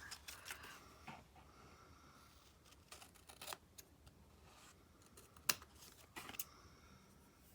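Quiet paper-craft handling: paper pieces being moved and handled, with scattered light clicks and taps, the sharpest about five and a half seconds in.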